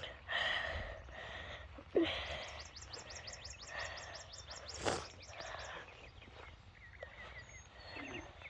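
Outdoor farmyard ambience: a bird singing a fast run of repeated downward chirps, about six a second, over a steady background hiss, with a shorter run of chirps near the end. A single sharp knock sounds about five seconds in.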